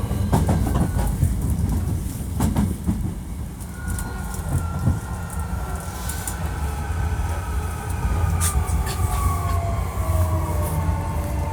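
Hankyu 1300 series electric train running, with a steady low rumble and wheels clicking over rail joints in the first few seconds. From about four seconds in, the Toyo IGBT traction inverter and motors whine in two tones that glide slowly downward in pitch.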